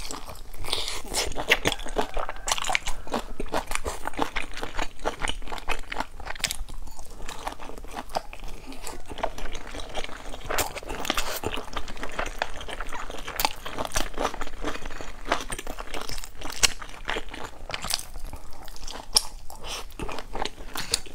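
Chewing and biting into a pan-fried stuffed bun, with rapid irregular crunching from its browned crust throughout.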